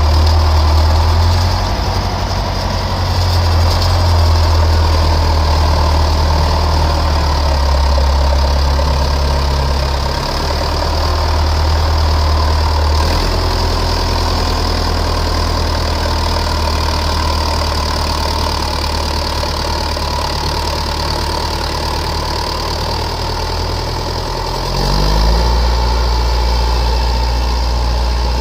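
County 764 four-wheel-drive tractor's diesel engine running while buckraking silage, its speed changing a few times and picking up near the end.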